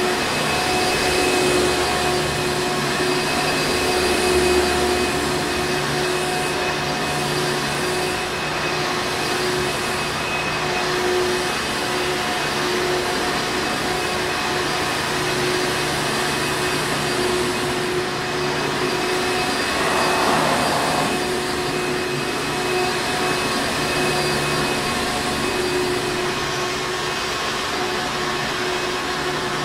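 Hoover Encore Supreme vacuum cleaner running steadily: a constant motor whine over rushing airflow, with a brief swell in the sound about two-thirds of the way through.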